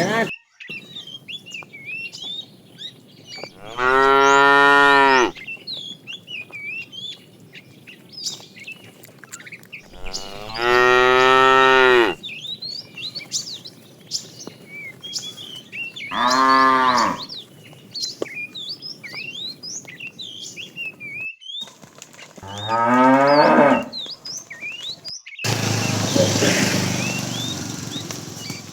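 Cattle mooing: four long, loud calls a few seconds apart, the last one wavering up and down in pitch. Small birds chirp between the calls, and a rushing noise comes in near the end.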